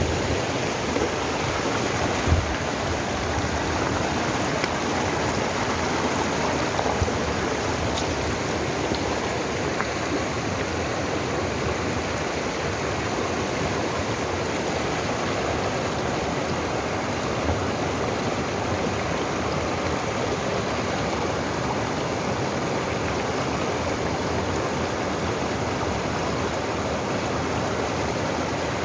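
Mountain valley stream flowing with a steady rushing sound.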